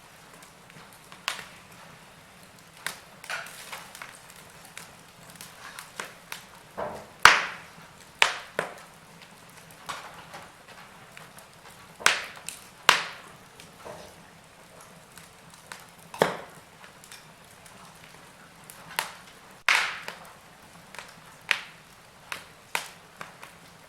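Wood fire in a fireplace crackling: irregular sharp pops and snaps over a faint steady hiss, some much louder than others.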